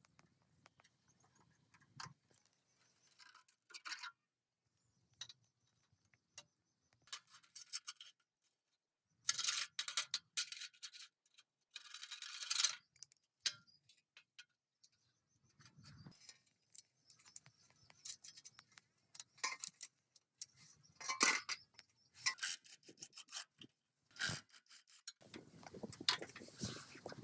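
Intermittent scraping and brushing strokes on metal parts with scattered light clinks, in short bursts separated by pauses; the longest and loudest bursts come about a third of the way in.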